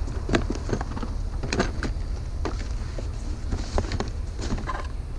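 Items in a curbside trash pile being handled and rummaged through: scattered knocks and clicks with some rustling, over a steady low rumble.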